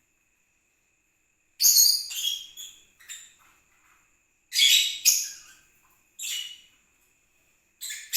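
Small pet parrots calling: about five loud, shrill, high-pitched squawks in quick bursts, starting about a second and a half in.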